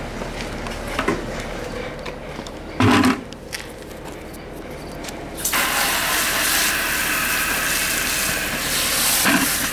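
Garden hose spraying water, a steady hiss that starts about halfway through, with a single loud knock a couple of seconds before it.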